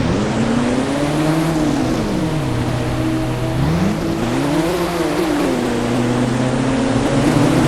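Engine revving, its pitch rising and falling several times over steady running noise.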